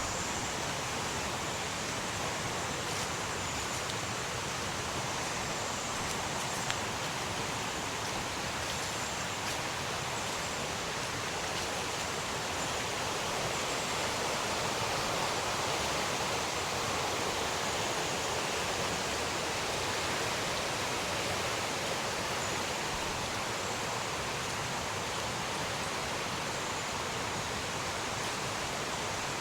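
Fast-flowing mountain river rushing over rocks: a steady, even rush of water. A single faint click comes about seven seconds in.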